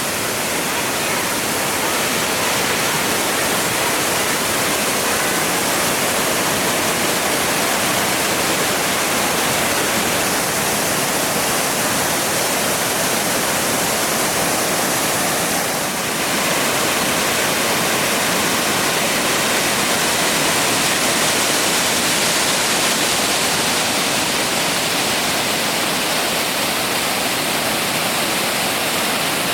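Fukiwari Falls, a broad waterfall, rushing steadily as a loud, even wash of falling water.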